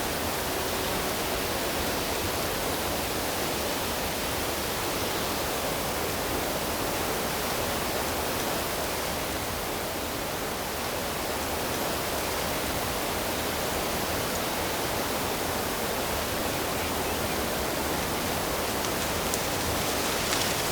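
Steady rush of running water, an even hiss with no rise or fall.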